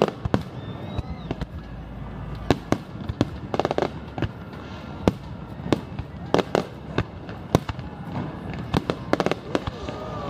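Fireworks display going off: a string of sharp bangs and crackling bursts at irregular intervals, some in quick clusters, over a low rumble.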